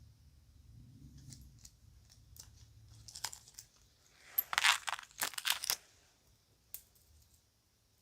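Crinkling and rustling of a bag and kid's jewelry being handled: scattered small clicks, then a dense spell of crinkling about four to six seconds in, and one last click near the end.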